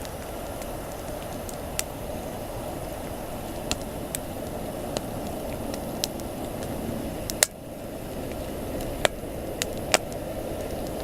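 Wood campfire crackling: irregular sharp pops and snaps over a steady rushing of flames, with the loudest pops about halfway through and again near the end.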